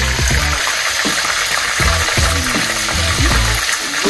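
Food frying in hot oil, a steady sizzle, with background music with a beat underneath.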